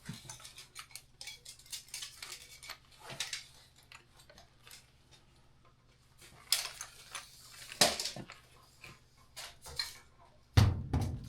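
Scattered metallic clicks and clinks of hand tools and metal parts being worked by hand, with a couple of sharper knocks and a loud thud near the end, over a faint steady low hum.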